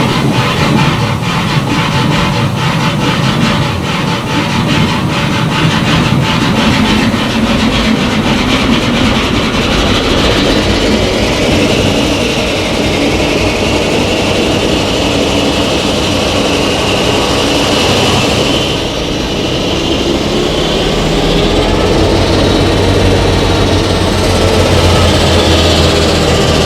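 EMD 567-series two-stroke diesel prime mover of an SD9 locomotive starting up on its first test run after restoration. It runs with a rapid, even beat at first, then settles into a steadier run, with a brief dip and a firmer low hum from about two-thirds of the way in.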